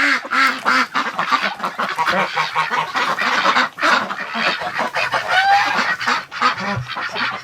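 A flock of domestic geese and ducks calling together, the geese honking in quick repeated calls over the ducks' quacking, with one rising call about five seconds in.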